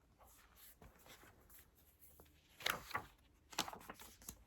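Soft paper rustling and light taps as a picture book's page is turned, in two short bursts about a second apart.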